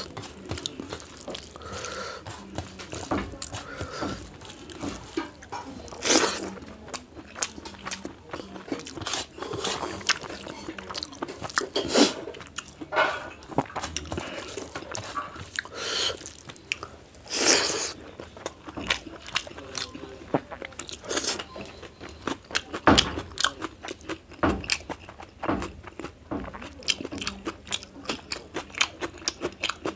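Close-miked eating sounds: chewing, crunching and wet mouth noises as a meal of rice, chutney and raw salad is eaten by hand. Irregular clicks and crackles throughout, with a few louder crunches.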